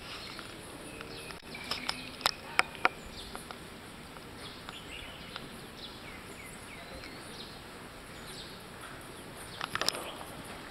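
Birds chirping in the background over a steady hiss, with a few sharp clicks about two to three seconds in and again near the end.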